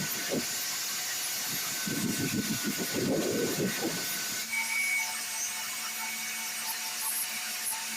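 Hand-tool work on rusted metal: irregular rasping, scraping strokes. About halfway through, these give way abruptly to a steady hum from a small electric tool running.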